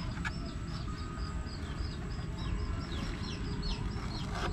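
A bird chirping over and over: short high chirps, each dropping in pitch, about three to four a second, over low background noise.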